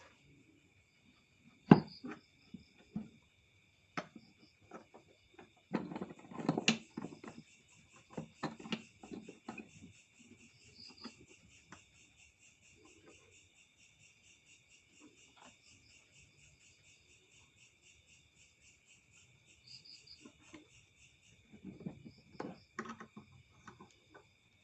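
Crickets trilling steadily throughout. Scattered knocks and clatter of handling come over it: a sharp loud knock about two seconds in, a burst of clatter from about six to ten seconds, and more near the end.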